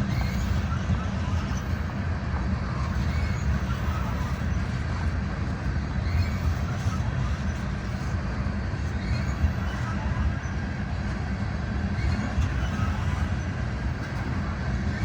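Loaded coal train's cars rolling past steadily: a continuous low rumble of wheels on rail with occasional faint clicks.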